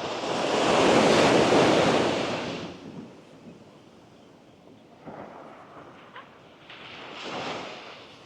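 Sea waves breaking and washing up the sand: one big rush of surf that builds and fades over the first three seconds, then two smaller swashes later on.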